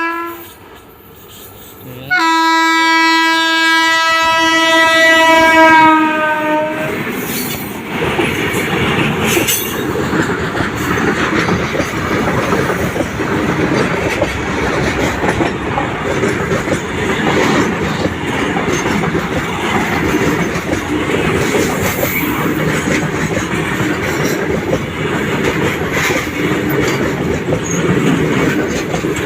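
Indian Railways train passing: the locomotive's horn sounds for about four seconds, its pitch dropping as it goes by, then the coaches' wheels rumble and clatter steadily over the rails.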